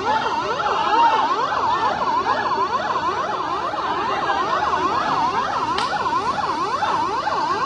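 Emergency-vehicle sirens in a fast rising-and-falling yelp, at least two sounding at once at different pitches and speeds.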